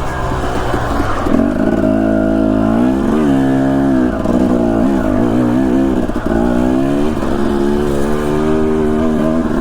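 Husqvarna TE250 dirt bike engine under way on the trail, its pitch rising and falling again and again as the throttle is worked on and off.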